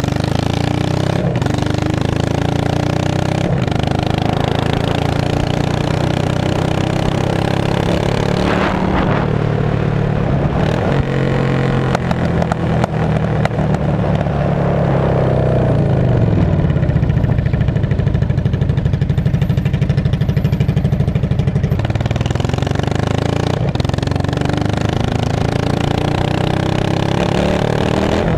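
Straight-piped 2002 Yamaha V-Star 650 air-cooled V-twin running loud and open. About a third of the way in the revs climb and fall back, and there is a louder stretch past the middle before it settles again.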